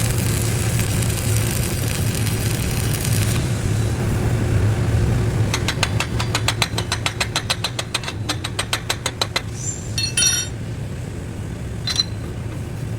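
Stick-welding arc with a 7018 rod crackling and hissing for about three seconds, then breaking off, over a steady low machine hum. About two seconds later comes a quick run of sharp metallic taps, about five a second, for nearly four seconds, followed by two single metal clinks.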